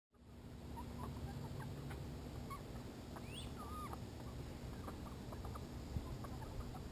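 Chickens clucking softly, with scattered short calls and a couple of higher chirping calls about three seconds in, over a steady low outdoor rumble.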